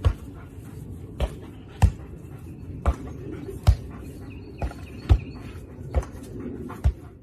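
A series of dull thumps, about one a second and irregularly spaced, over a low steady rumble.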